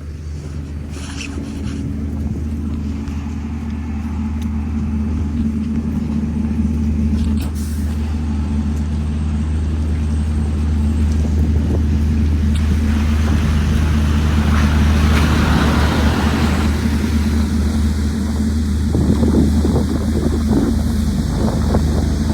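Diesel engine of a double-decker bus running steadily, its low drone slowly getting louder, with a rushing hiss about thirteen to seventeen seconds in and some light rattles near the end.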